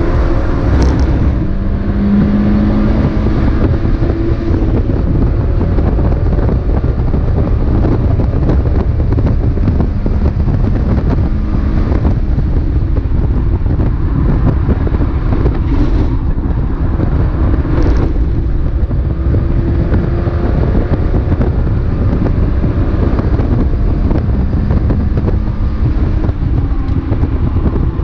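Mazda MX-5 race car at racing speed, its four-cylinder engine running under a heavy, steady buffeting rumble of wind and road noise.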